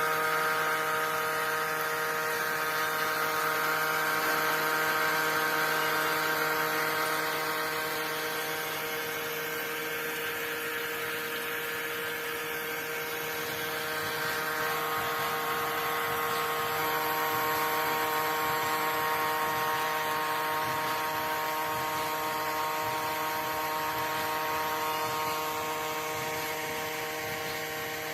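Small electric motor of a homemade mini water pump running steadily, a whine with a hiss over it; its pitch shifts slightly about halfway through.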